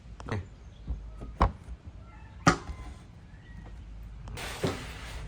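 Four separate sharp knocks spread over the first few seconds, then a steady hiss near the end with one more knock inside it.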